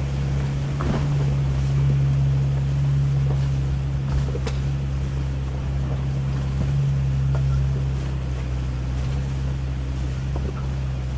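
Jeep Cherokee XJ driving, its engine drone steady, with a few scattered clicks and knocks over the noise of the road.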